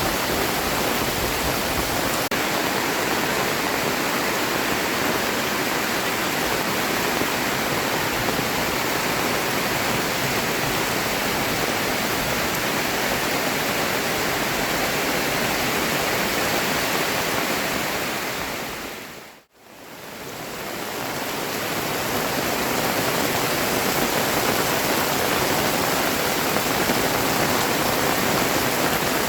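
Heavy tropical rain falling as a steady, dense hiss. About two-thirds of the way through it fades out briefly to silence and fades back in.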